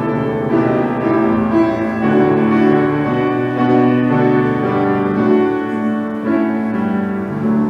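Piano playing slow, held chords with a moving melody line.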